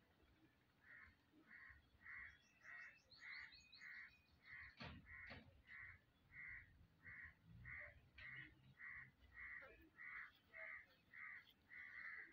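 A bird calling over and over in a steady rhythm, about three short calls every two seconds, starting about a second in. There is a faint high trill early on from another bird, and a single knock about five seconds in.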